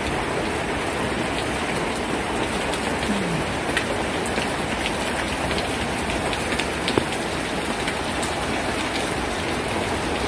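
Steady rain falling on a garden and yard, with scattered drop ticks and one sharper tap about seven seconds in.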